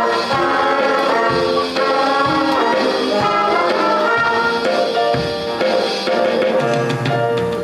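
School jazz band playing a blues with brass and drums, a steady beat under the horns.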